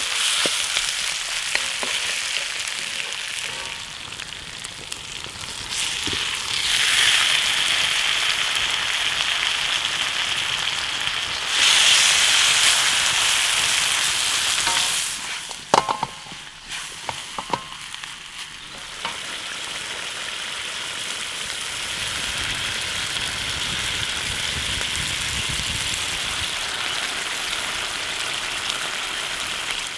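Food sizzling loudly in a hot wok over an open fire, with a wooden spatula stirring and scraping through frying onions and chicken. A few sharp knocks come about halfway through, and the sound settles into a steadier sizzling hiss for the last part.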